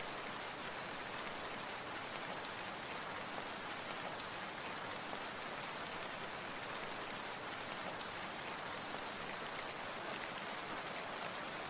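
Falling water making a steady, even hiss peppered with many fine drop-like ticks.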